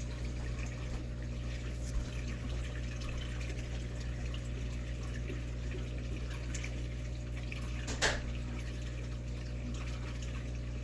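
Aquarium water trickling over a steady low hum from the tank's filter pump, with one sharp click about eight seconds in.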